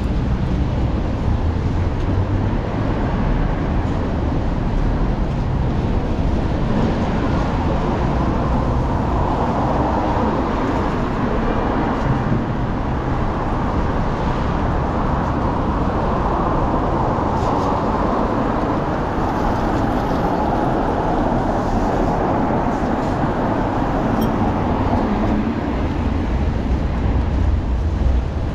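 Steady city street traffic: a continuous wash of cars driving past.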